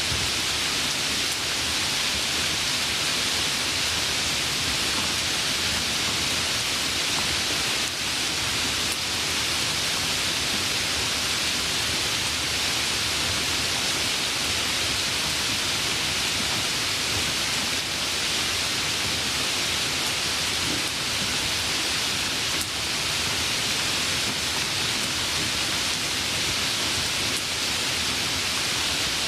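Steady rain falling, an even hiss of many drops with no distinct single drops or thunder.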